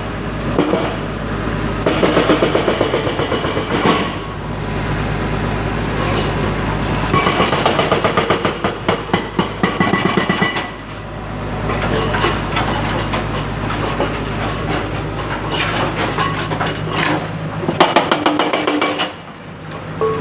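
An L&T Komatsu heavy machine's diesel engine running steadily, with three bouts of rapid metallic clanking and rattling as it works.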